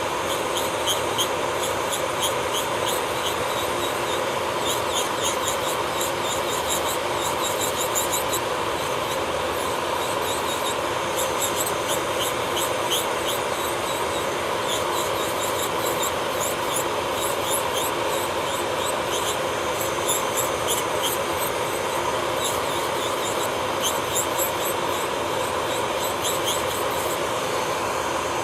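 Electric nail drill (e-file) running steadily, its motor humming while the spinning bit grinds against the nail with a constant fine scratchy crackle.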